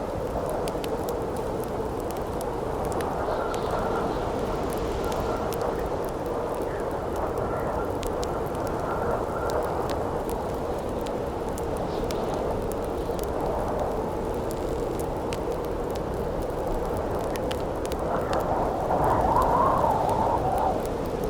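Campfire crackling with sharp pops over a steady howling wind; the wind swells into a louder, wavering gust near the end.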